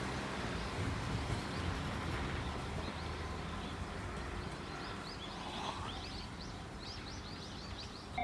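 Fading rumble of a passing electric commuter train dying away into open-air ambience, with a bird chirping in a quick run of short, rising notes through the second half.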